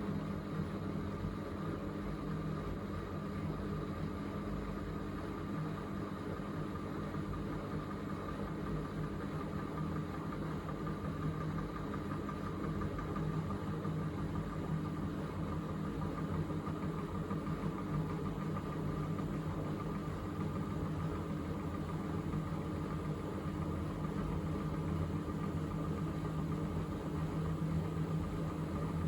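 Miele W3985 washing machine spinning after the main wash, its drum turning at a steady speed: an even motor hum with a fainter higher whine.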